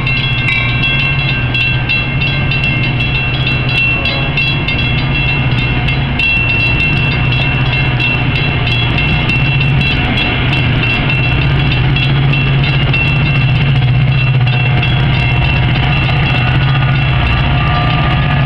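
Metra bi-level commuter cars rolling past at a grade crossing: a steady rumble with wheel clicks and a steady high tone over it, growing a little louder in the second half as the diesel locomotive at the rear draws near.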